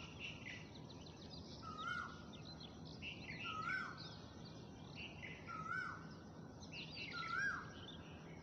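Birds chirping and twittering, with one bird repeating the same short rising-then-dropping call about every two seconds. A faint low steady hum lies underneath.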